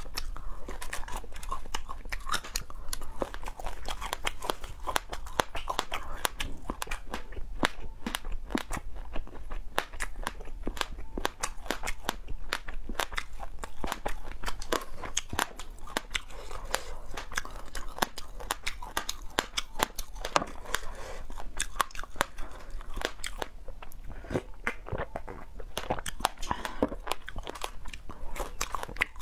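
Close-up crunching and chewing of crisp fried silkworm moths: a dense run of sharp crunches with wet mouth sounds.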